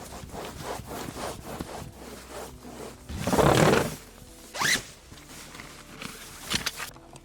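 A zipper being worked, likely on a tent or bag: a long loud rasping pull about three seconds in, a quick zip rising in pitch about a second later, then shorter rasps near the end.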